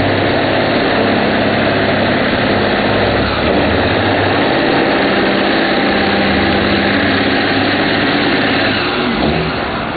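Large diesel semi-truck engine running at a steady idle, its pitch shifting slightly a few seconds in.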